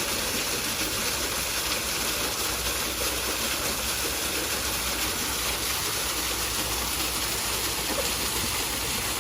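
Steady rushing noise of running water at an even level, without a break.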